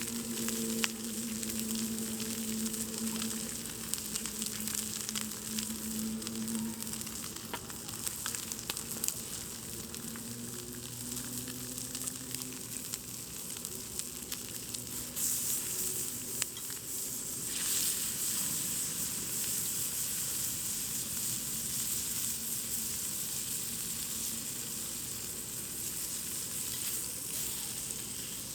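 Wood campfire burning, with a continuous hiss and many small sharp crackles and pops. The hiss grows louder briefly about halfway through, and a faint low hum runs under it for the first several seconds.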